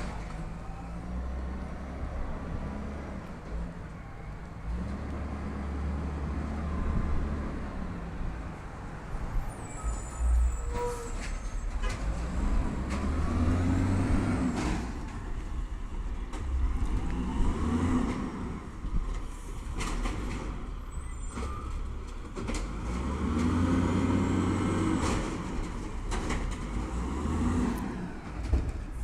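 Peterbilt 320 automated side-loader garbage truck working, its engine speeding up in several surges with a rising and falling whine, and a few sharp clanks between them.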